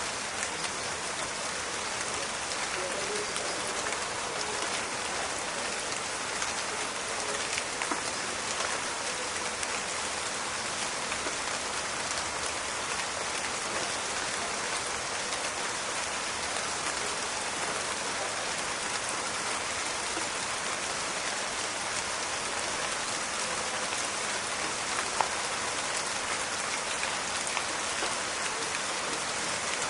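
Steady rain falling in a forest: a dense, even hiss of countless drops, with a few sharper single drops crackling through now and then.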